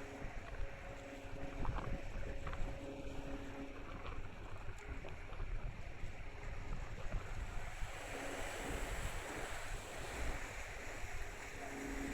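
Low rumble of a car ferry's engines with wind buffeting the microphone, and a steady hum that switches on and off every second or two. A hiss of wind and water swells about eight seconds in.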